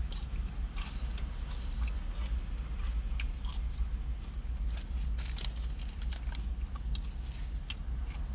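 A person chewing a steak and cheese sub, with scattered wet mouth clicks and crackles, over a steady low hum.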